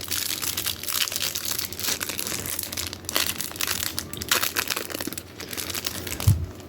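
Plastic wrapping on a sealed pack of trading cards crinkling and tearing as it is pulled open by hand, with one dull thump near the end.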